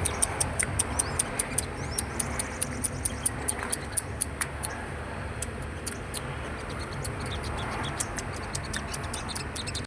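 A small songbird chipping fast: very short, high ticking calls about four or five a second, over a steady low rumble.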